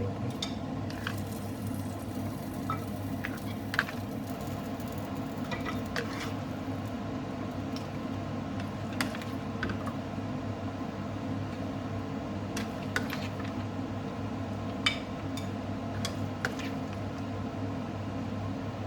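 Serving spoon scraping and clinking against a cooking pot and glass bowl as cooked lamb curry is spooned across, in scattered sharp clicks, the loudest about fifteen seconds in, over a steady low hum.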